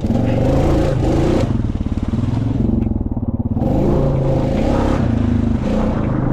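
Honda Rubicon ATV's single-cylinder engine running under way, its engine speed rising and falling several times as the throttle is worked.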